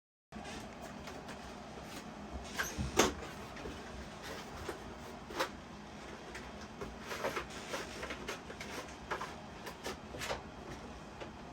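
Boxes and packaging being handled: scattered light clicks and knocks, the loudest about three seconds in.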